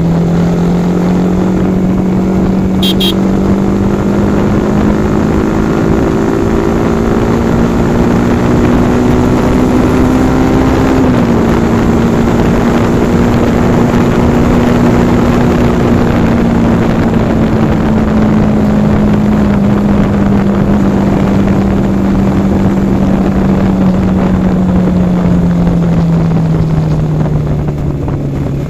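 Yamaha R15 V4's 155 cc single-cylinder engine running at a steady cruise. Its note climbs slowly for about the first eleven seconds, then eases off gradually toward the end.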